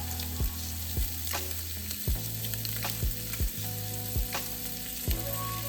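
Butter sauce sizzling in a frying pan, with background music with a steady beat, about two strikes a second, over it.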